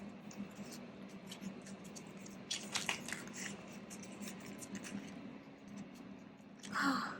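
Banknotes and binder envelopes being handled: soft paper-and-plastic rustles and small clicks, with a cluster of them about two and a half seconds in and a louder rustle near the end.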